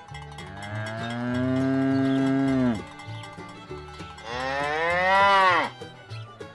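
A cow mooing twice: two long calls, each dropping in pitch as it ends, the second higher and louder than the first.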